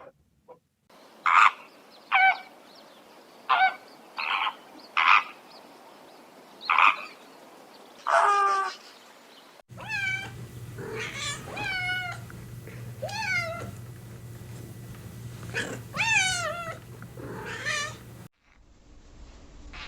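Domestic cat meowing: a run of short meows, then a second recording with a steady low hum behind it and longer meows that fall in pitch.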